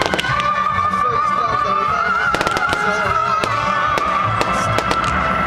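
Fireworks going off in a string of sharp bangs and crackles, heard over music with a held, wavering melody line.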